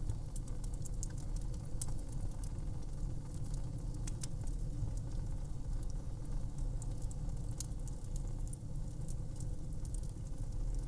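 Fire crackling: irregular sharp pops and crackles over a steady low rumble of burning.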